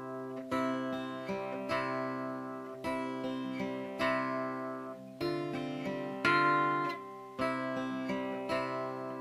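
Background music: acoustic guitar strumming chords, a fresh strum about every second, each ringing and fading before the next.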